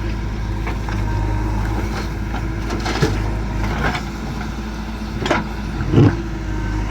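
Heavy diesel engine running steadily, with a few sharp knocks, one about three seconds in and one about five seconds in, and a heavier thud, the loudest sound, about six seconds in.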